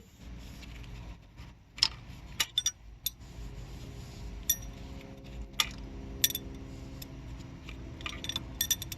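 Steel pushrods from a 6.7 Powerstroke diesel engine being handled and checked for bends, giving a scattered series of sharp metal clinks, several with a short ring, bunched near the end.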